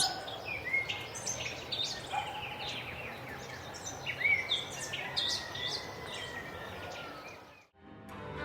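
Several birds chirping and whistling, with short high calls and a few rising and falling whistles over a steady outdoor hiss. It fades out about seven and a half seconds in.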